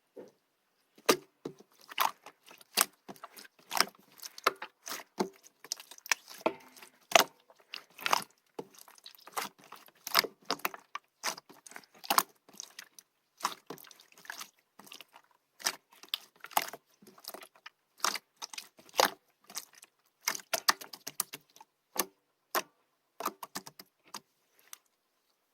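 Opaque slime being squeezed and worked by hand, giving irregular sharp clicks and pops, often several a second.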